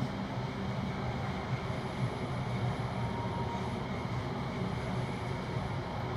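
Electric suburban passenger train running between stations, heard from inside the carriage: a steady rumble of wheels on track with a low motor hum.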